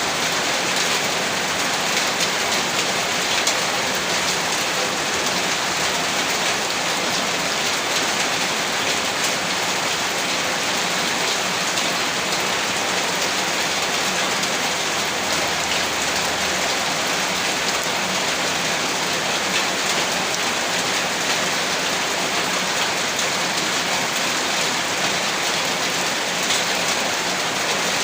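Heavy rain falling steadily, a dense even hiss of drops with fine patters of individual drops striking a surface.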